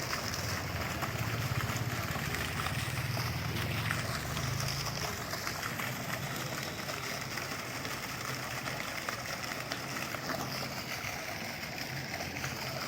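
Steady splashing of water from a decorative fountain, with a low hum underneath for the first few seconds.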